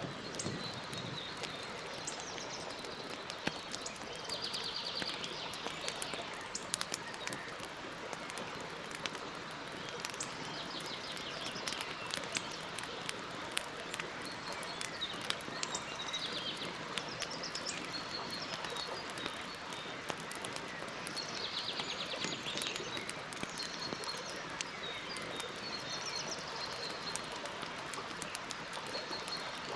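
Campfire crackling with many sharp pops over a steady hiss, while birds call in short chirps and several rapid high trills.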